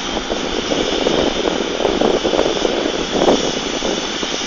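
Steady, loud mechanical running noise with no let-up, like a large machine or fan running continuously.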